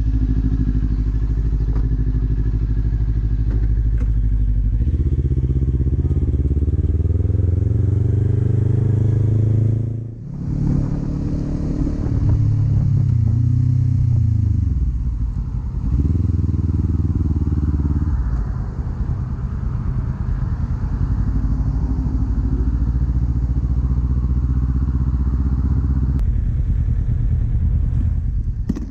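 Kawasaki Z400 parallel-twin engine with an Akrapovič exhaust under way: it runs steadily, then its pitch rises as it accelerates about five seconds in. It cuts out briefly around ten seconds, then rises and falls again before settling to a steady cruise with wind rush in the later part.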